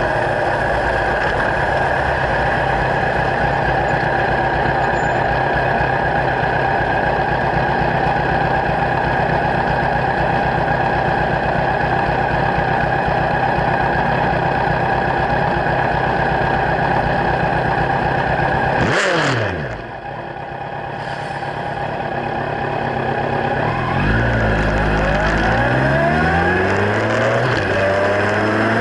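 Kawasaki Z1000 inline-four running through LeoVince slip-on exhausts at steady revs. About two-thirds of the way through, the revs fall sharply and the sound drops. A few seconds later the engine pulls hard again, with the revs climbing and dropping back in repeated steps, like upshifts through the gears.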